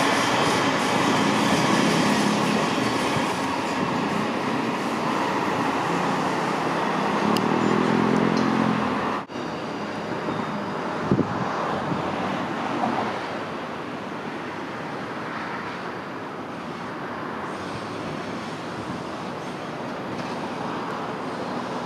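A passenger train running past, a dense rumble with a humming pitch that rises and falls, cut off abruptly about nine seconds in; then steadier, quieter street and traffic noise with a couple of short knocks.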